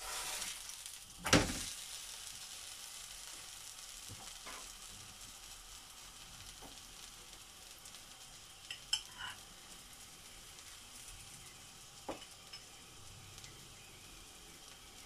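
Keema paratha frying on a hot tawa, a steady sizzle that slowly fades after the paratha has been turned over. A single sharp knock comes about a second and a half in, and a few light clicks follow later.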